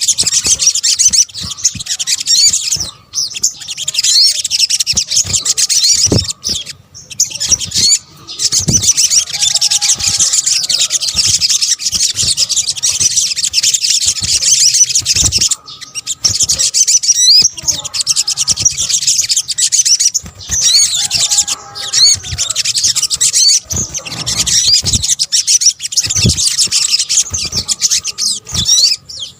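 Olive-backed sunbird (sogok ontong) song used as a bird lure: a dense, nearly continuous stream of rapid high-pitched twittering and chirps with a few short breaks, plus fainter lower whistled notes. Occasional low thumps sound beneath it.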